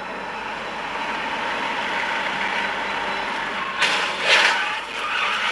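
Steady vehicle and road noise, broken by two loud, sudden sounds about four seconds in.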